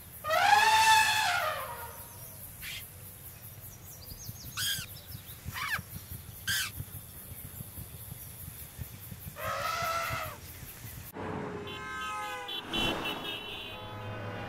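Soundtrack sound effects: two loud pitched calls, each rising then falling, near the start and again about ten seconds in, with a few short squeaks between. From about eleven seconds a busier mix of horn-like tones comes in.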